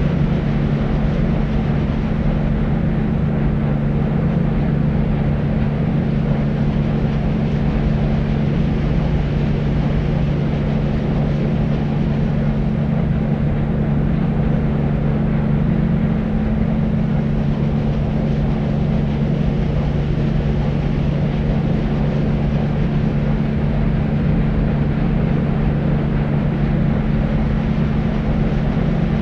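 Steady deep white noise for sleep: an even, unchanging rushing hiss weighted toward the low end, with a low steady hum under it and little treble.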